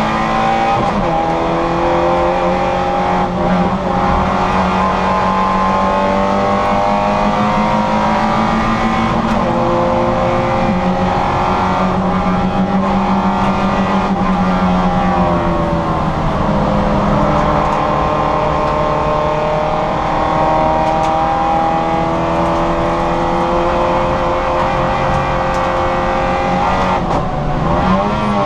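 Citroën Saxo VTR's four-cylinder engine running hard at high revs under racing load. The pitch drops sharply and climbs again several times, about a second in, around ten seconds, around sixteen seconds and near the end, as at gear changes or lifts.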